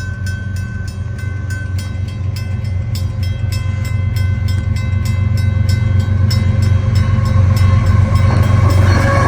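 Long CN freight train rolling past at the crossing: a heavy, steady rumble of locomotive and rail cars that grows louder towards the end, over rapid, evenly spaced ringing strikes about four a second that stop near the end.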